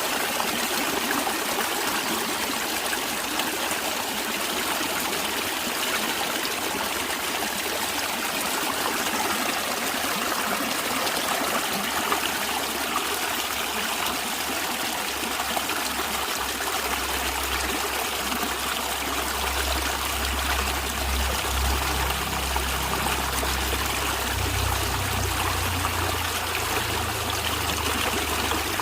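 Running water of a stream, a steady trickling and flowing. A low rumble joins underneath about halfway through.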